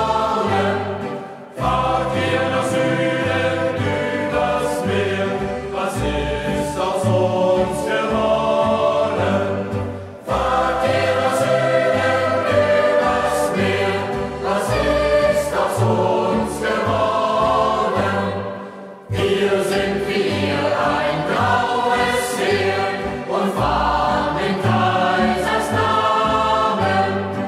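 Youth group choir singing a German hiking song over an instrumental accompaniment, with short breaks between phrases about every nine seconds.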